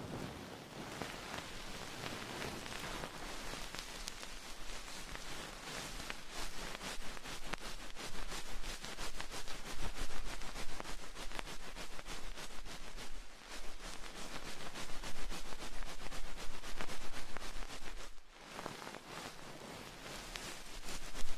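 Close-up ASMR trigger: a dense, fine crackling and rustling right at the microphone, swelling louder toward the middle and breaking off briefly near the end.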